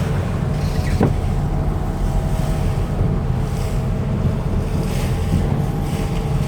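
Motorboat engine running steadily, with water washing around the hull and wind buffeting the microphone.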